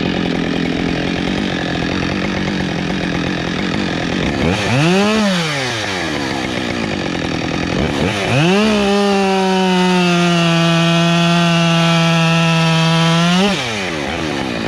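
Chainsaw cutting wood: revved up and back down once about five seconds in, then held in a long steady cut from about eight and a half seconds, its pitch sagging a little under load, before easing off near the end.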